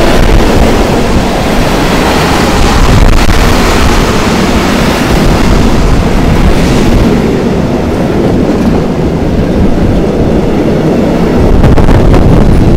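Tank wagons of a freight train rolling past at close range: a loud, steady rumble of steel wheels on rail, with a few sharp clicks about three seconds in and near the end.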